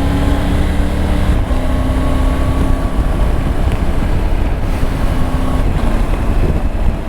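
Triumph Tiger 900's three-cylinder engine running at a steady cruise, under heavy wind noise on the rider's microphone.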